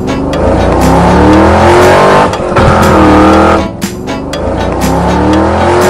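Sound effect of a car engine revving up. It comes in about three rising surges, mixed with background music.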